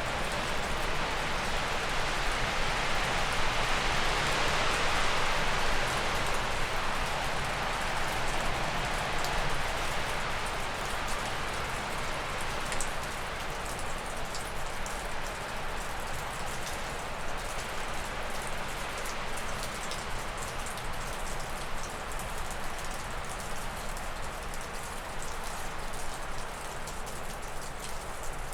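Wind gusting through spruce and birch trees, a rush that swells over the first few seconds and then eases off. Meltwater from snow dripping off a roof ticks steadily and stands out more as the gust dies down.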